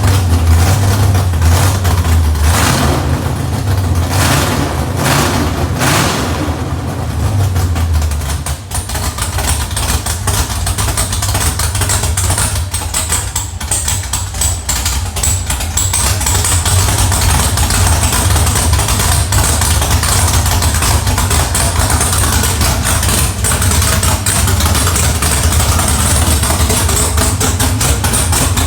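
2005 Pontiac GTO's 6.0 L LS2 V8 running on its first start-up, revved several times in the first eight seconds, then settling to a steady idle.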